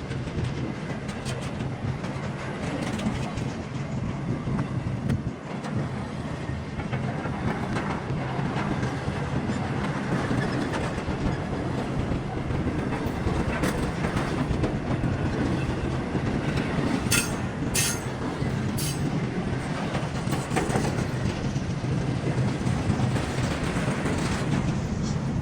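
Train cars rolling past on the rails with a steady clatter, with a few sharp metallic clicks about two-thirds of the way through.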